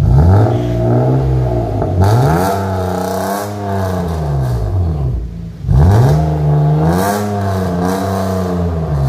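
BMW E36 engine with a muffler-deleted exhaust being revved about four times, the pitch climbing and falling on each blip and dropping back briefly toward idle around five seconds in.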